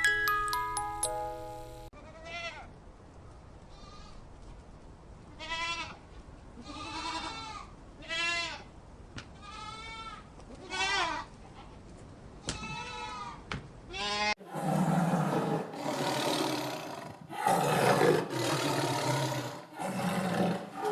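Goats bleating: about eight separate wavering bleats over some twelve seconds, after a brief chiming tune fades out. About two-thirds of the way in they give way to a large animal's loud, rough roaring calls, repeated in bouts of one to two seconds.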